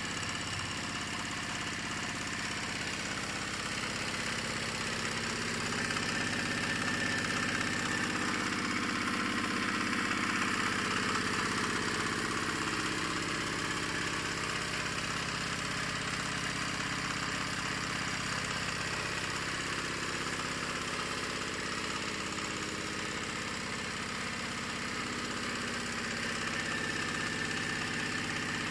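10 HP diesel engine running steadily, powering a pellet feed mill.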